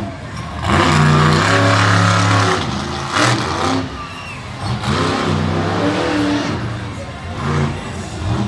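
Monster truck engine revving hard, its pitch climbing and falling in several surges, with a brief loud burst a little over three seconds in.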